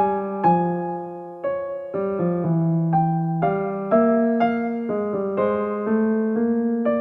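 Soft background piano music: single notes and chords struck at an unhurried pace, each ringing and fading before the next.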